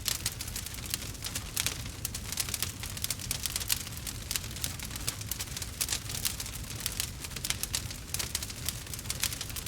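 Burning wood fire crackling and popping continuously, many sharp irregular cracks over a low steady rumble of the flames.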